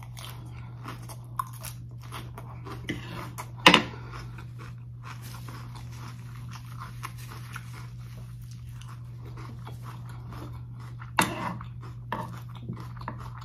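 Close-miked crunching and chewing of a mouthful of crisp lettuce salad, in scattered sharp crunches. The loudest comes about four seconds in and another cluster near eleven seconds, over a steady low hum.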